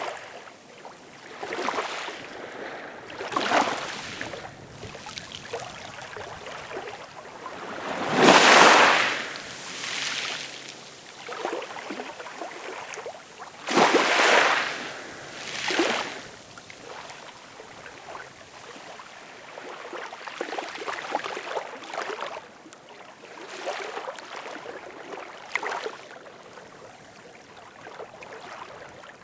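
Ocean waves washing in and breaking in irregular surges a few seconds apart, the loudest about eight and fourteen seconds in.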